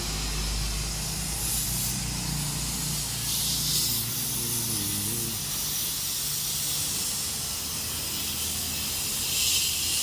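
Steady loud hissing noise, with faint low voices in the background.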